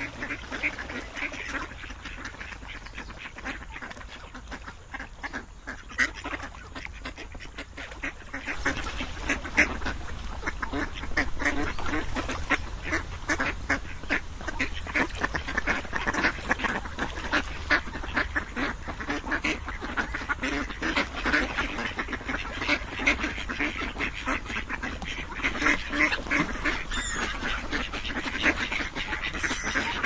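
A flock of ducks and geese calling: many short quacks and honks overlapping without a break, getting louder and busier about nine seconds in.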